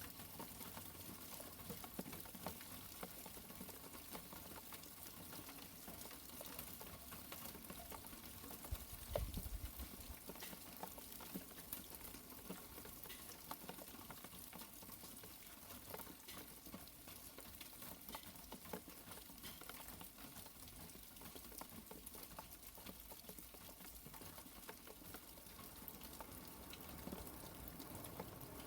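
Rain pattering steadily, with many small droplet ticks. About nine seconds in there is a brief low rumble of thunder.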